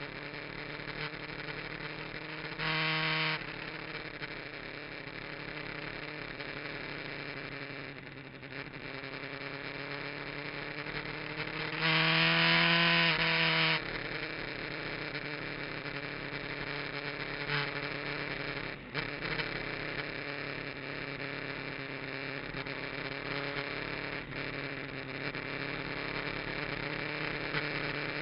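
Kawasaki GPZ900R inline-four motorcycle engine running on track, heard through a cheap action camera. Its pitch rises and falls as speed changes, with two short, much louder stretches, about three seconds in and about twelve seconds in.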